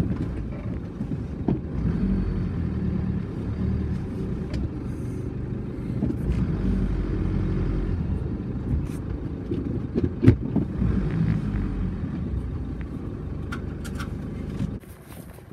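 Car engine idling with a steady low rumble, which drops away near the end. A few sharp knocks sound over it, the loudest about ten seconds in.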